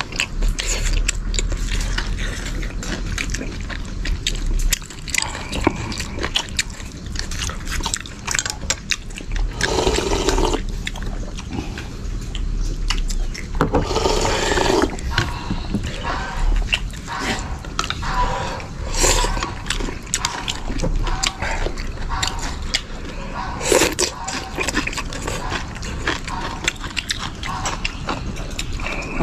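Close-up eating sounds: chewing and slurping mouthfuls of noodle slices, with many small clicks scattered throughout and several louder slurps of about a second each.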